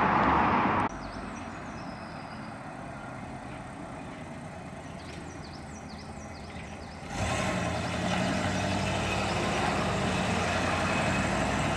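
A car engine idling steadily, cutting in abruptly about seven seconds in after a quieter stretch. In the first second there is a loud rush of noise.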